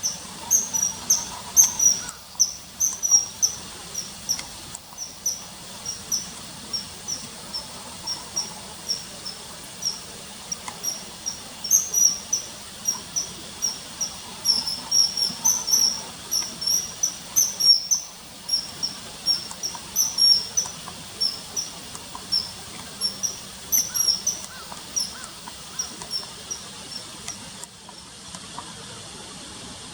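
Common kingfisher calling: a rapid, irregular run of short, shrill, high-pitched whistles, several a second, over a steady faint hiss.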